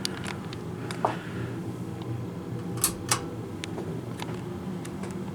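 Harbor Breeze Vue three-blade ceiling fan running on low speed: a steady motor hum, with a few short clicks scattered through it, two sharper ones close together about three seconds in.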